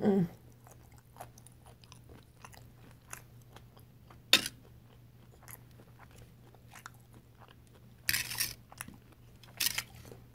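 Close-up chewing and mouth sounds of someone eating shrimp and corn, with small wet clicks throughout and one sharp click about four seconds in. Near the end there are a couple of short scraping bursts as a fork and fingers work through the food in a foil tray.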